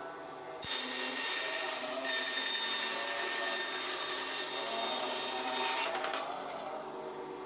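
Ryu RBS 8 bandsaw blade cutting through wood: a steady rasping cut that starts about half a second in and ends about six seconds in.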